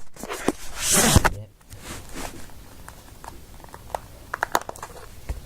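Handling noise as the back cover of an HTC Wildfire S phone is prised off: a scrape about a second in, then a run of small clicks and taps.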